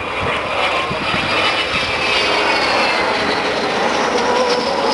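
Avro Vulcan bomber's four Bristol Olympus 202 turbojets running loud and steady as the aircraft flies by, with high whining tones over the jet noise that shift in pitch near the end.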